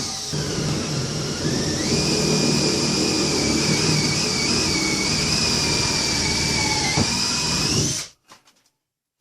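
Power drill running under load, speeding up about two seconds in and stopping abruptly about eight seconds in.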